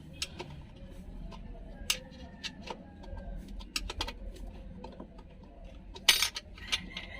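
Irregular sharp metallic clinks and taps, like hand tools on metal parts during engine work, with a louder rattle about six seconds in.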